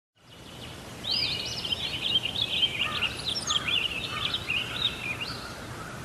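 Bird chirping and twittering in a fast, jumbled run of high calls that starts about a second in and eases off near the end, over steady background noise.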